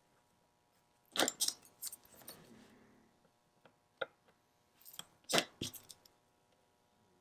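Sharp little clicks and taps of watchmaker's tools and small watch parts being handled on the bench: a quick cluster about a second in, a single click at about four seconds, and another cluster around five seconds in.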